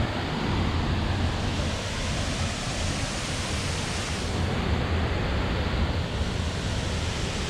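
Steady rush and low rumble of water plunging at Haew Suwat Waterfall, heard up close.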